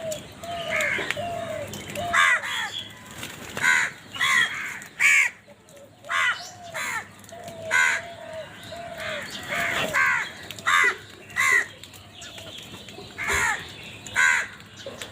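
Crows cawing repeatedly: a dozen or so loud, harsh caws at uneven intervals, with softer, lower calls in between.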